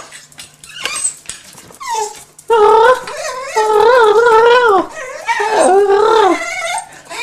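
Dog whining and yowling in long, wavering, pitched cries, starting about two and a half seconds in and breaking off a few times: excited vocalising in anticipation of food being offered.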